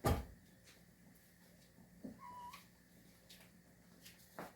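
A single knock right at the start, then a cat meowing once, faintly and briefly, a little over two seconds in, with another soft knock near the end.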